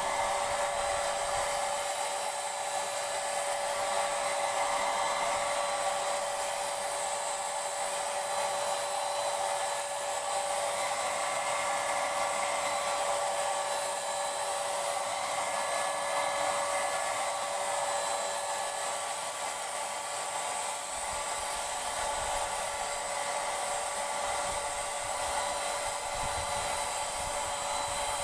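Paint Zoom handheld electric paint sprayer running steadily, a constant whine over rushing air.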